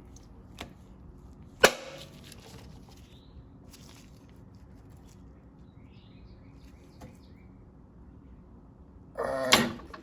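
Hand work on a lawnmower's fuel hose and carburetor: a single sharp click under two seconds in, then a few faint clicks as the hose is twisted off.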